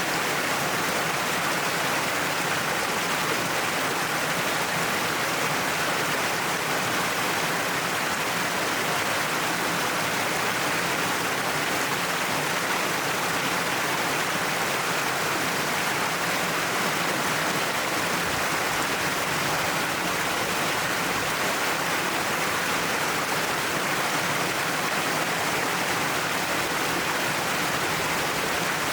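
Waterfall pouring down a cliff face, a steady, even rush of falling water.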